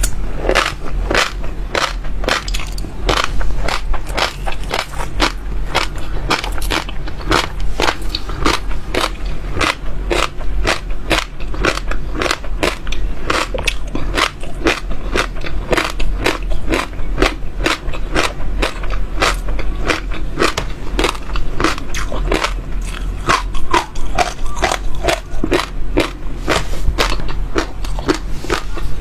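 Seeds being bitten and crunched between the teeth, crisp cracking crunches at about three to four a second, over a steady low hum.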